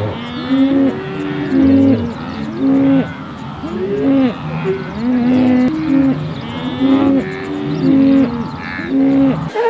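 A chorus of animal calls, many drawn-out pitched calls overlapping one another, some held on a steady note and others rising and falling. It cuts off abruptly near the end.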